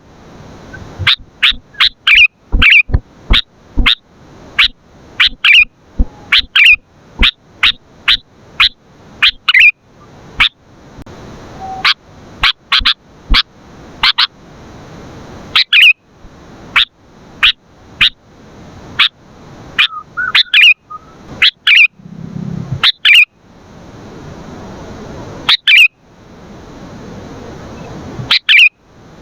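Sooty-headed bulbul calling energetically: short, sharp, loud notes repeated in quick irregular runs, sometimes several a second, with brief pauses between.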